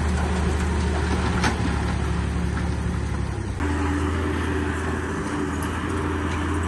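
Diesel engine of heavy construction machinery running steadily, its low hum shifting abruptly in pitch a little past halfway, with a faint knock or two of rock or steel.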